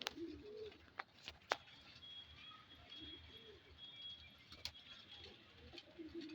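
Domestic pigeons cooing faintly, low wavering coos scattered throughout, with a few sharp clicks; the loudest click comes about a second and a half in.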